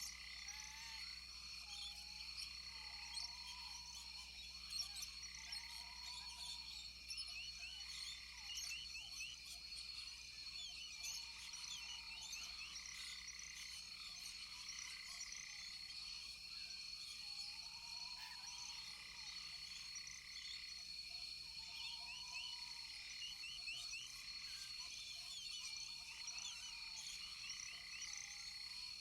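Rainforest frog chorus: short rising-and-falling calls repeated every couple of seconds, over a steady high insect drone and many quick overlapping chirps.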